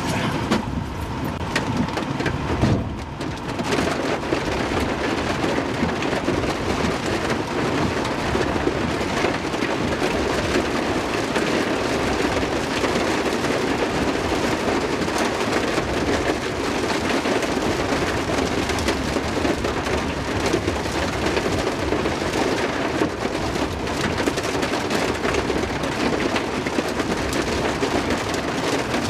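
Heavy rain, a dense, steady hiss that settles in about three seconds in and holds evenly.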